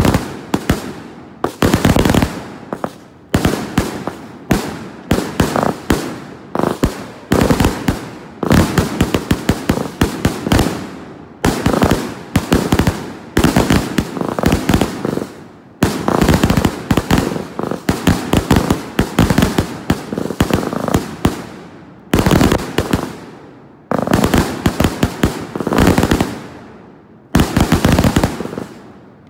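Fireworks going off one after another: clusters of sharp bangs and crackling, a new volley every second or two.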